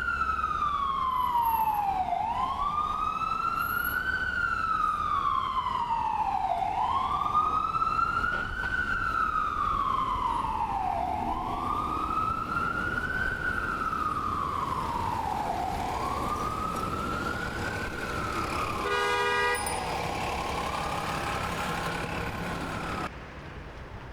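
Ambulance siren on a slow wail, rising and falling about every four and a half seconds over a low traffic rumble, slowly growing fainter. A short horn blast sounds about nineteen seconds in, and the sound cuts off suddenly about a second before the end.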